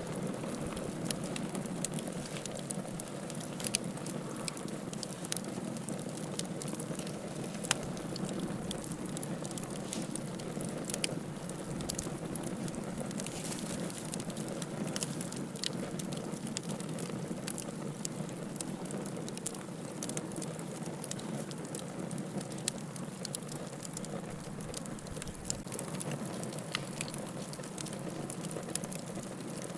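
Wood fire burning in a fireplace: a steady low rush of flame with frequent, irregular sharp crackles and pops from the burning firewood.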